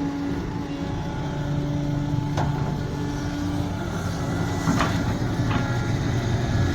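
Sumitomo SH370LHD-6 excavator's diesel engine running steadily, with three sharp knocks from the machine at work, the loudest a little under five seconds in.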